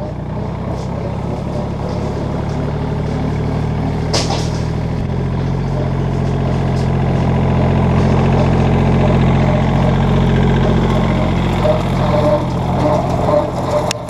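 Kubota tractor's diesel engine running steadily while brush hogging with a rotary cutter, its note shifting about five seconds in and growing slightly louder. A single sharp click sounds about four seconds in.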